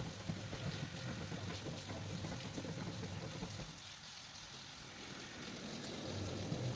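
Rain falling steadily, a dense hiss dotted with small drop ticks, over a low rumble that eases off midway and swells again near the end.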